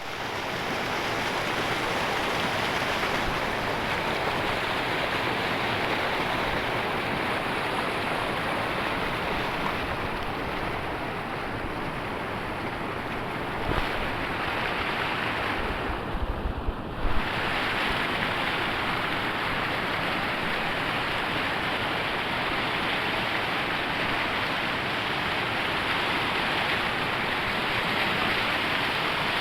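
Waterfall: a steady rush of falling water. A little past halfway it briefly dulls, with a few low thumps on the microphone.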